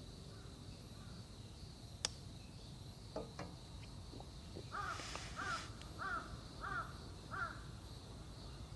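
A crow cawing five times in an even series, each caw an arched call. A single sharp click sounds about two seconds in, and a faint steady high tone runs underneath.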